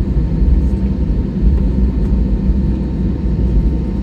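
Steady low rumble heard inside an airliner's cabin as it taxis and waits for take-off, with its engines at idle.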